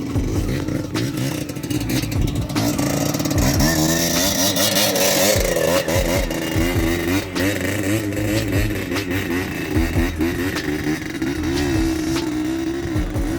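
Small trail motorcycle engine revving up and down as it is ridden over rough trail, climbing in pitch about three to five seconds in, with scattered knocks and clatter.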